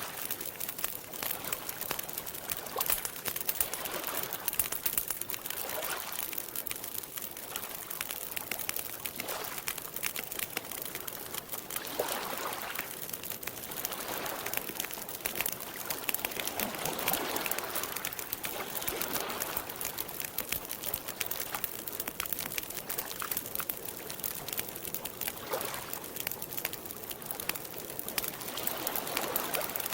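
Campfire crackling with many small pops, over soft swells of water lapping every few seconds.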